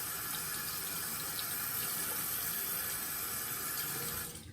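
Tap running steadily into a sink, shut off abruptly near the end.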